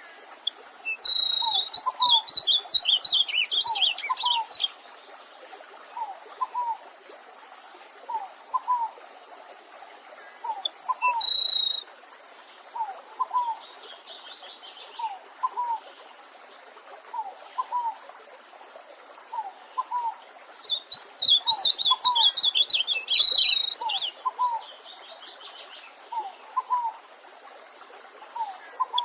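Wild songbirds singing: a rapid, high twittering song phrase at the start and again about two-thirds of the way through, with a few single clear notes between. Under it a low short call repeats about once a second.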